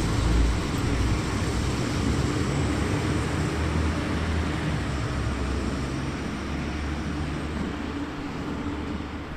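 Train running past, a steady rumble with a low hum that slowly fades away.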